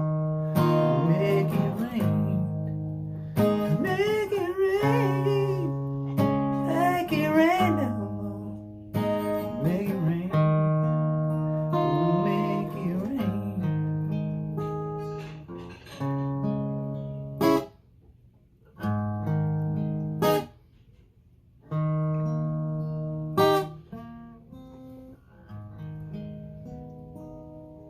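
Acoustic guitar playing the blues outro of the song, with a few bending, wavering notes in the first eight seconds. In the second half it plays short chords that are stopped abruptly with silent gaps between them, then closes on a last phrase that rings and fades out.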